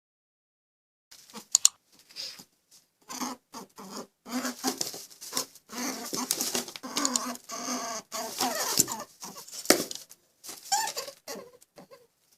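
A small animal's irregular squeaks and chirps, mixed with short clicks and scuffles, coming in quick bursts.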